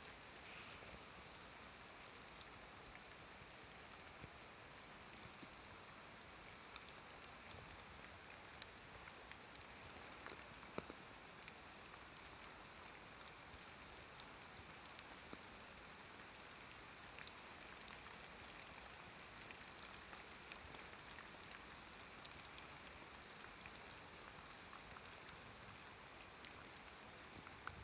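Faint, steady outdoor hiss with scattered small ticks, and one sharper click about eleven seconds in.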